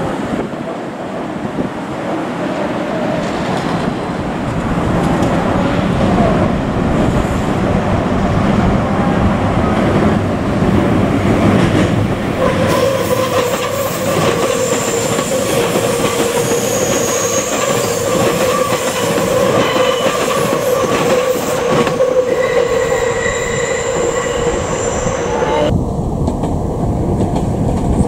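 Meitetsu electric train running past with rumble and wheel clatter on the rails; from a little under halfway through, steady high-pitched wheel squeal rises over it, and the high sounds cut off suddenly near the end.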